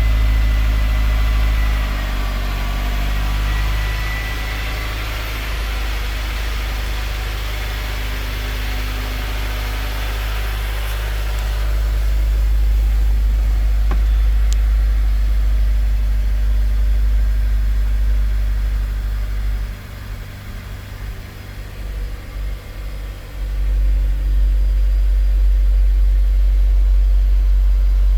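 Honda S2000's four-cylinder engine idling steadily shortly after a cold start, with a brief drop in loudness about twenty seconds in.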